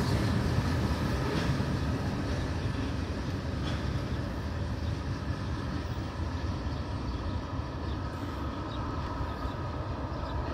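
Tail end of a loaded freight train of tank cars rolling away, its steel wheels on the rails making a steady rumble with faint clicks, slowly fading as the last covered hopper recedes.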